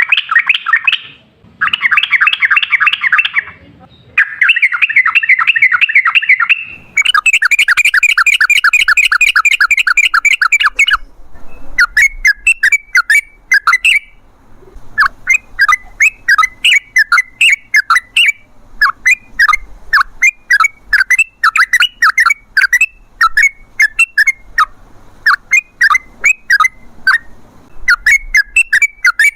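Yellow-vented bulbul (trucukan) singing. It gives four long, rapid chattering trills in the first eleven seconds or so, then a run of short, separate bubbling chirp phrases about half a second apart.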